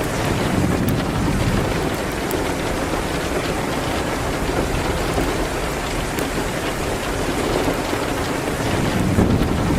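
Steady rain, with low rumbles swelling about a second in and again near the end, and a few faint crackles from a fire.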